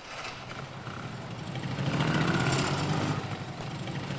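Fiat 500's small air-cooled two-cylinder engine running as the car approaches, growing louder over the first two seconds and then holding steady.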